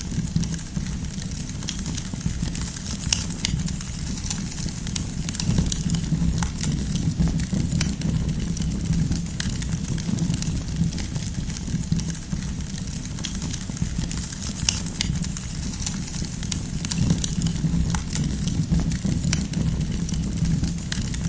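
Wood fire burning with a steady low rumble of flame and frequent small sharp crackles and pops from the burning logs.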